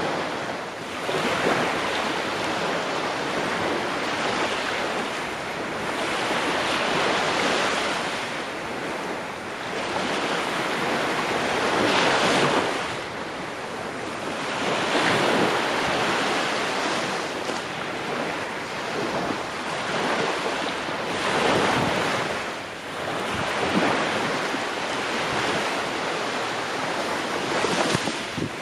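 Ocean waves breaking and washing on the shore, a steady rush that swells and eases every few seconds.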